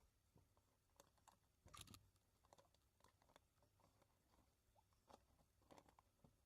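Near silence: faint room tone with a few scattered small clicks and a brief rustle about two seconds in.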